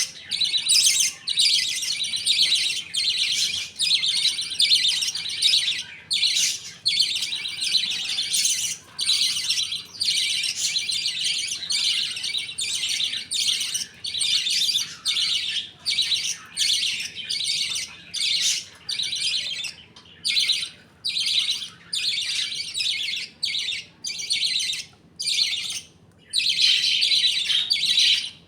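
A flock of budgerigars chattering and chirping continuously, in rapid bursts broken by short pauses.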